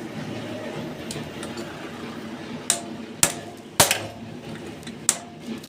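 Hammer blows on a Hero Splendor motorcycle engine being dismantled for a full overhaul: a few faint taps, then five sharp metallic strikes at uneven intervals from about halfway in, some with a brief ring.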